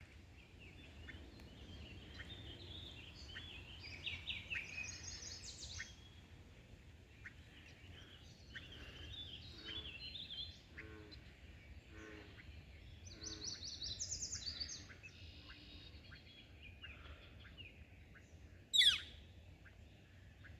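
Several songbirds singing and chirping in quick trills and note series over a faint, steady low rumble, with one loud sharp chirp near the end.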